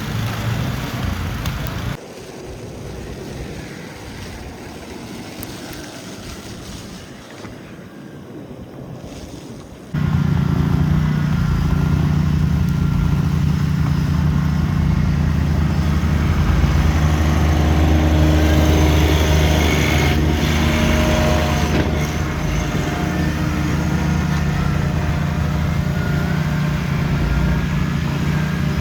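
City street ambience. A short quieter stretch is cut off abruptly by a loud, steady low engine rumble from a motor vehicle, which holds steady from about a third of the way in.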